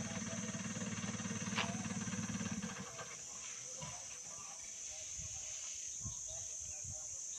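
A vehicle engine idling steadily, which cuts off about three seconds in. Behind it, insects keep up a steady high drone.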